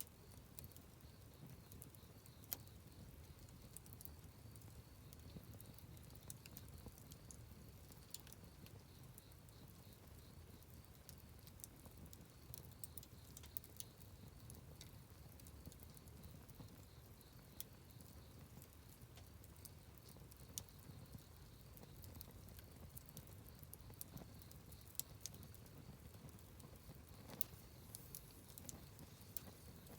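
Wood campfire crackling faintly: scattered sharp snaps and pops at irregular intervals over a low steady rush.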